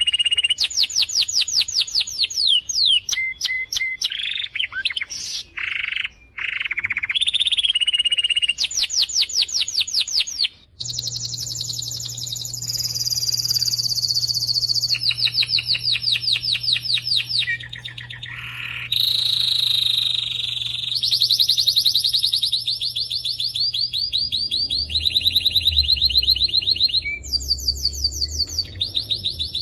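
Canary singing: long runs of fast, high-pitched trills and repeated notes that change every second or two, with a brief break about a third of the way in. A faint low hum runs underneath from that break on.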